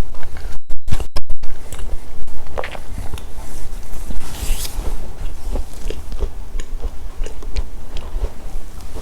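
Close-up biting and chewing of crunchy chocolate snacks, with crisp crunches and crackles, over a steady low hum from a poorly connected microphone.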